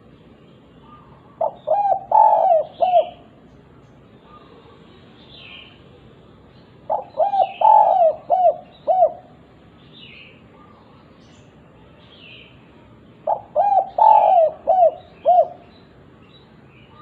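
Spotted dove (derkuku) cooing its 'kuk 2' song: three phrases about six seconds apart, each a quick run of short coos.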